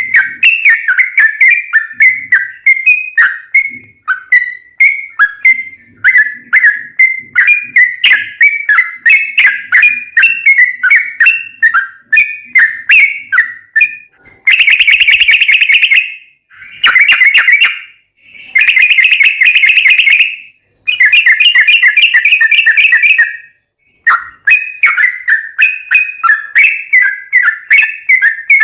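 Yellow-vented bulbul (trucukan) singing loudly: a quick run of short chirping whistled notes, several a second. About halfway through it breaks into four long, fast rolling trills (the 'ropel' that bird keepers prize), then returns to the chirping notes.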